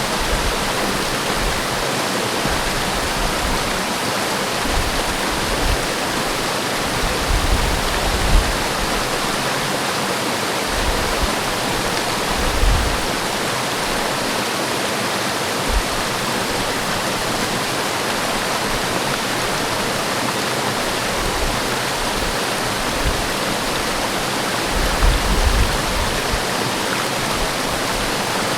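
Forest waterfall rushing as a steady, even roar of falling water, with now and then a brief low rumble.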